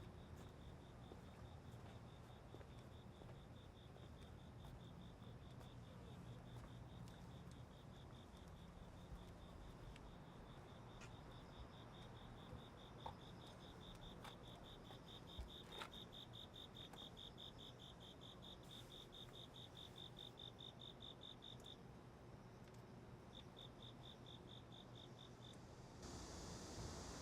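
Crickets chirping faintly in a fast, even pulse, breaking off briefly near the end over a low hum of room tone. About a second before the end, a soft hiss comes in.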